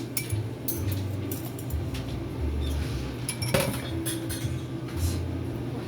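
Kitchen clatter: scattered light clinks and knocks of utensils and dishes while food is handled at the counter.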